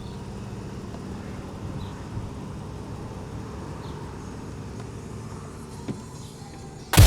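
Car driving: a steady low rumble of engine and road noise with a faint steady hum. Loud music starts abruptly near the end.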